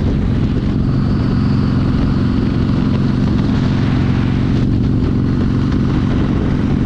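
Harley-Davidson V-twin motorcycle engine running steadily at a low, even pitch.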